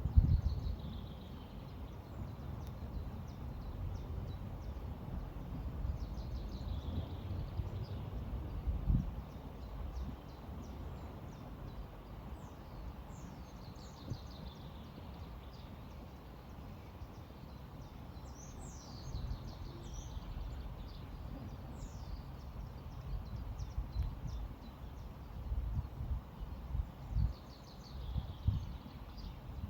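River ambience: a steady low rush of flowing water with uneven low bumps near the start, about nine seconds in and near the end. Birds call over it in short runs of high, falling chirps every few seconds.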